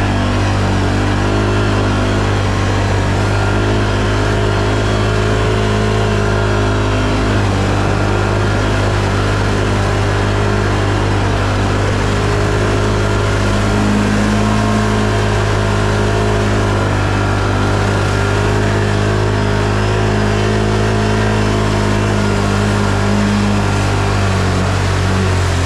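An off-road ATV engine runs steadily at fairly constant revs, with only slight rises and falls in pitch.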